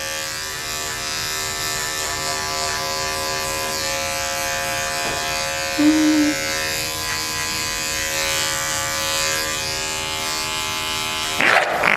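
Electric dog grooming clippers running steadily with an even motor hum while trimming matted ear hair. A short higher tone sounds about six seconds in. A sudden louder noise comes near the end, and the clippers stop.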